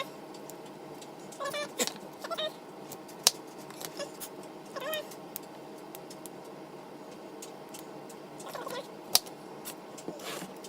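Fresh broccoli florets being snapped off the stalk by hand: a few sharp snaps, the loudest about three seconds in and again near nine seconds. Several short pitched calls that rise and fall come in between.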